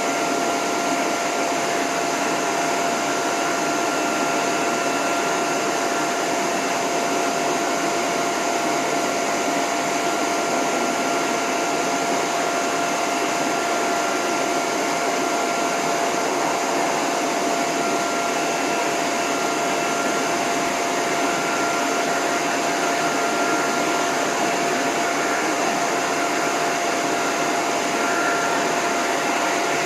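Dog grooming hose dryer blowing steadily on its lowest setting with the end nozzle off: an even rush of air with a steady whine.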